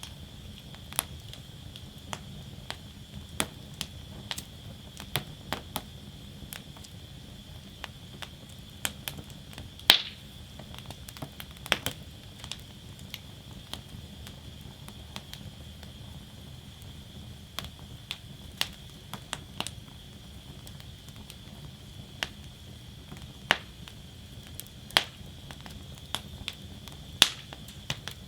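Wood fire burning in a fire basket, crackling with irregular sharp pops over a steady low hiss; a couple of louder snaps come about ten and twelve seconds in.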